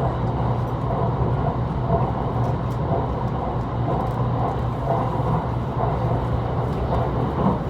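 Steady running noise of a train heard from inside the passenger car: a continuous low hum under an even rumble of wheels on the track.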